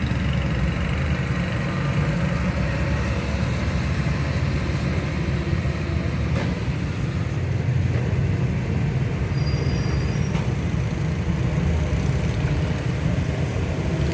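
A heavy truck's engine running steadily, a continuous low rumble without change in pitch or level.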